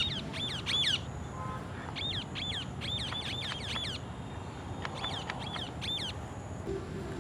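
Parrot calling in three quick runs of short, high chirps, about four a second, with short pauses between the runs.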